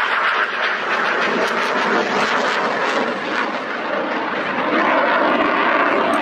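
Jet fighter flying a display pass overhead. Its jet engine noise is a steady loud rush that swells slightly near the end.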